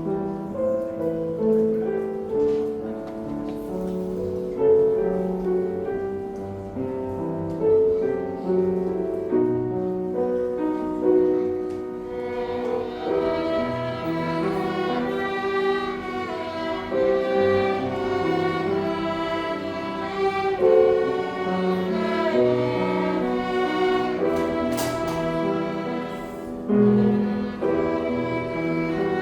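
String ensemble of violins and cellos playing a slow hymn arrangement; the sound grows fuller and brighter about twelve seconds in as more of the upper strings join.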